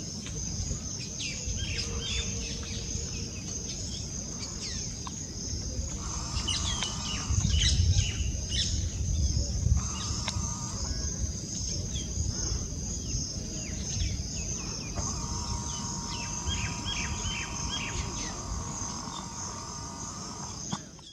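Steady high-pitched insect trill, with short bird chirps scattered throughout and a low rumble that swells about seven to ten seconds in.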